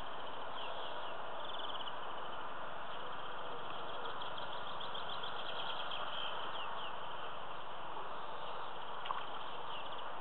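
Small birds chirping and trilling over a steady background hiss, with one short click about nine seconds in.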